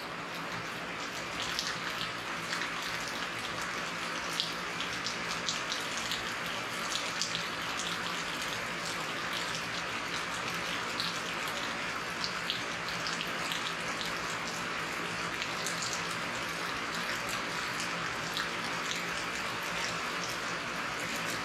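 Steady rainfall, a continuous hiss with many sharp individual drops ticking through it.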